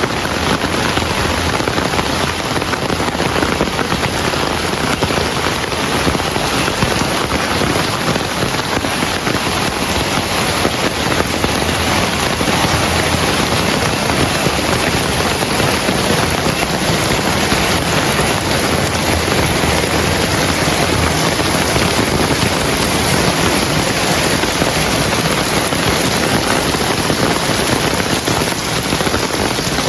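Heavy rain falling steadily, a dense even hiss of many drops on surfaces.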